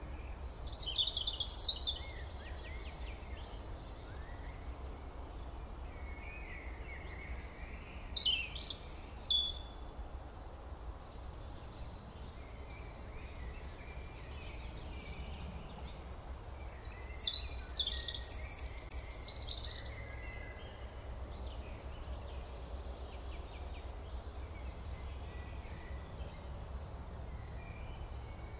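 Birds chirping in three short bursts over a steady low background hum.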